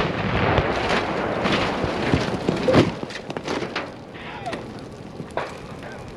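The rumble of a large tannerite-and-gasoline explosion dying away over about three seconds, broken by several sharp cracks and thuds, then a fainter noisy tail with one more crack near the end.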